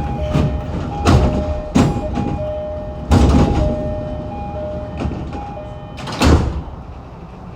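Saikyo Line train's door chime, two notes taking turns and repeating, with the doors sliding and several loud knocks of door movement, the loudest a little after three seconds and about six seconds in.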